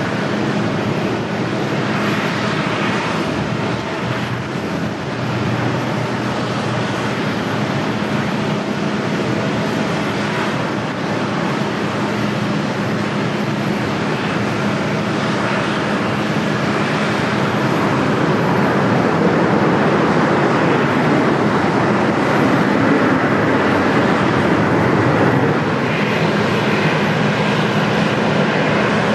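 Jet airliner engines running at the airfield: a loud, steady noise with a few held tones, growing somewhat louder past the midpoint.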